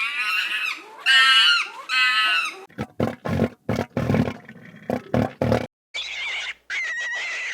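Farm animal calls cut one after another: three wavering, pitched calls, then a run of short rough grunts, then a raspy call with a steady high tone near the end.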